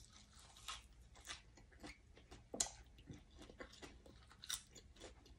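Faint close-up mouth sounds of someone chewing fresh raw herb leaves: soft, crisp crunches and clicks, scattered irregularly.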